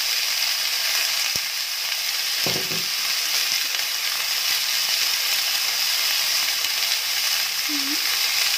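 Cut asparagus frying in oil in a pan with oyster sauce just poured in, making a steady sizzle.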